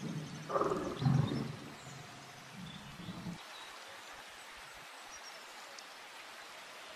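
An animal's loud, low calls in the first second and a half, then fainter low sounds that stop about three seconds in, leaving outdoor background with a few faint high chirps.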